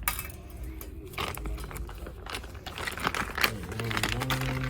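Rapid clicking and light metal knocks of hand tools working on an engine, like a ratchet wrench tightening bolts, densest in the middle. Near the end a steady low hum comes in and steps up once in pitch.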